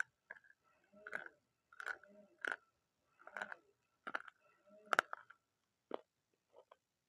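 Close-up crunching: someone biting and chewing crunchy food in a string of sharp, irregular crunches about one every second, the loudest a little before the end.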